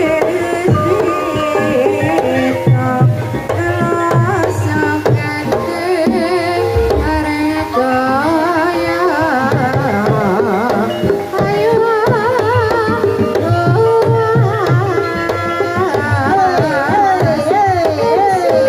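Javanese gamelan music for a kuda kepang dance: kendang hand drums beating under sustained metallophone notes, with a singer's wavering melody line over them.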